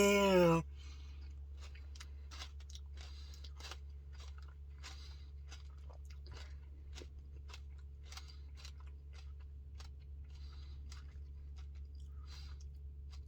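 Mouth chewing a spoonful of peanut butter Puppy Chow Blizzard, with small irregular crunches from the crunchy cereal pieces, over a low steady hum.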